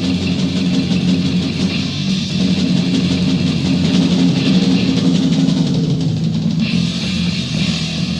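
Death metal from a 1990 demo recording: distorted electric guitars and a drum kit playing an instrumental passage without vocals. The sound gets brighter and hissier about seven seconds in.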